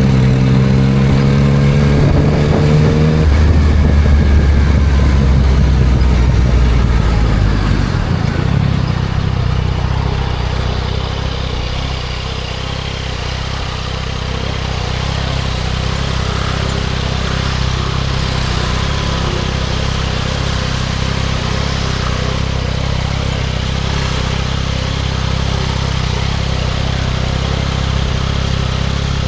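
Yamaha MT-09 SP's three-cylinder engine through a Spark aftermarket full exhaust, holding steady revs, then easing off about three seconds in. From about eight seconds it settles into a lower, steady note under steady wind and road noise.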